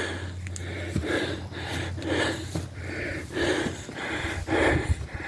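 A man breathing hard through the mouth, a puff about every half second to second, over a steady low hum.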